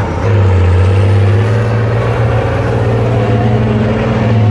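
Heavy off-road trial truck's engine running loudly at steady revs, a deep continuous drone.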